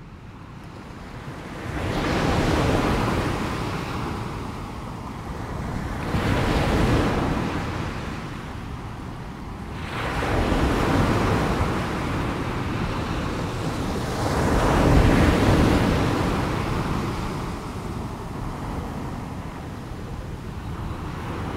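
Sea waves washing onto a shore, a steady surf hiss that swells and falls back roughly every four seconds.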